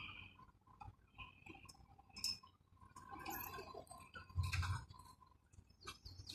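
Faint, scattered clicks and light knocks, with one louder brief knock about four and a half seconds in.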